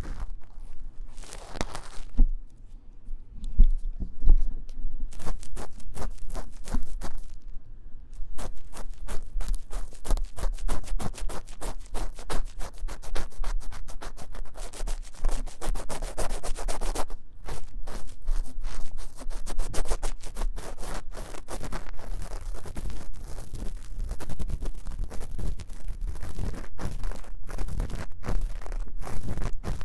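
Fast, vigorous ear-cleaning scratching inside the silicone ear of a 3Dio binaural microphone: a dense run of quick, sharp strokes. It thins out for a few seconds near the start, with a few low bumps, then picks back up.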